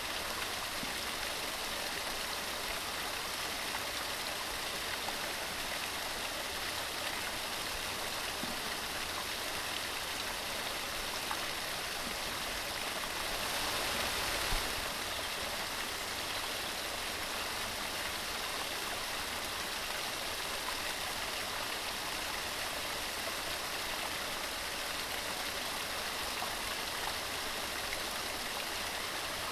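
Mountain stream running steadily over rocks, a continuous rushing splash with a brief swell about halfway through.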